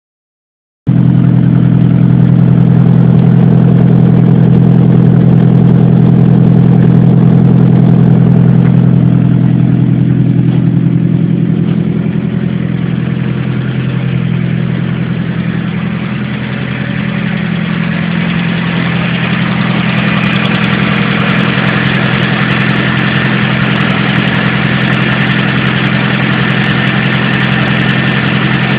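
A vehicle engine running steadily at idle, starting abruptly about a second in and easing a little midway before settling again. The owner suspects it may be making an abnormal noise.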